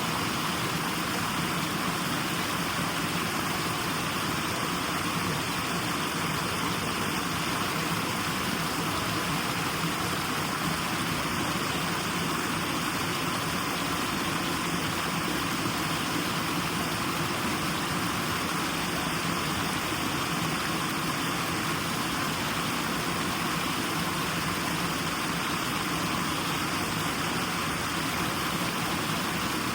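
Steady white-noise sleep sound: an even, unchanging hiss, strongest in the middle range.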